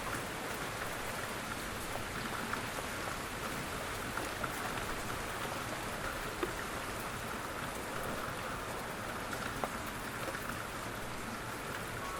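Steady light rain falling on a surface, an even patter with the occasional louder single drop.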